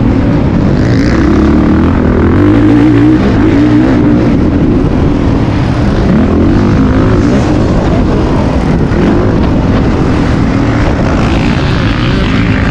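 Motocross dirt bike engine running hard, its revs rising and falling repeatedly as it is ridden round the track, over a steady rush of noise.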